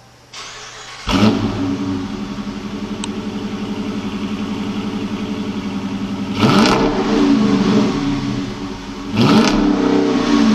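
Dodge Challenger R/T's 5.7 L Hemi V8 through a Corsa exhaust starting up about a second in, settling into a steady idle, then blipped twice, the pitch rising and falling back each time.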